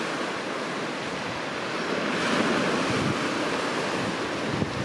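Sea waves surging on the shore with wind blowing across the microphone: a steady rushing noise that swells a little about two seconds in.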